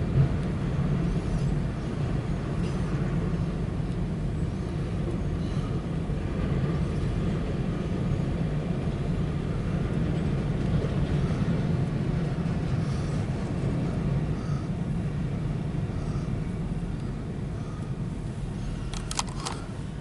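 Empty autorack freight cars rolling past with a steady low rumble, heard from inside a car and easing off near the end. A few sharp clicks come right at the end.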